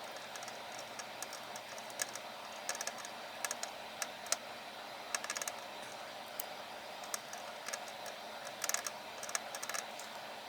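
Irregular light clicks and taps, some coming in quick clusters, over a steady background hiss.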